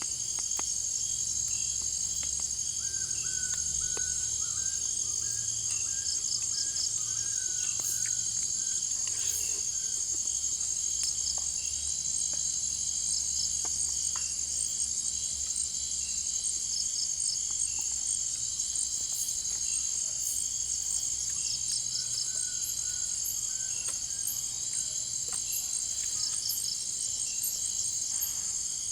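Dense night chorus of jungle crickets and other insects, several high-pitched trills running steadily over each other. A lower string of short chirping notes joins in a few seconds in and again near the end.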